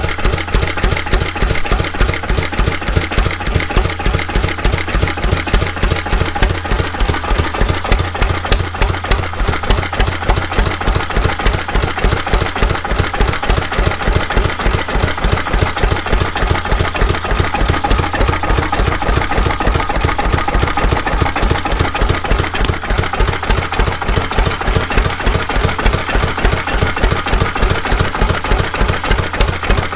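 Vintage C.E. McDonald 'Super Diesel' engine running steadily at idle, its regular firing beat unchanging.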